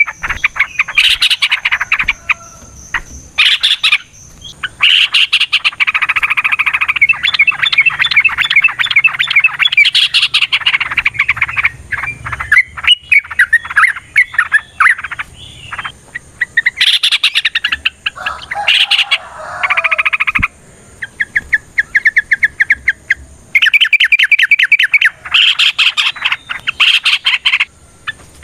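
Yellow-vented bulbul (trucukan) song: long runs of rapid, chattering notes with short breaks between them. The birds are in a fighting, answering mood.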